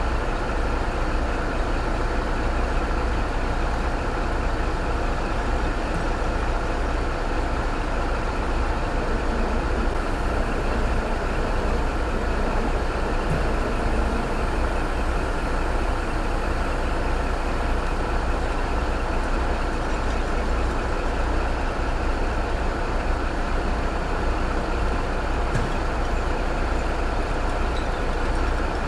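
Heavy diesel truck engine running steadily, a constant low rumble that neither rises nor falls.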